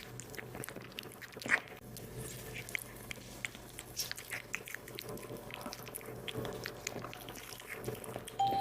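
A cat chewing and biting into meat: irregular small clicks of eating, with one louder bite about one and a half seconds in.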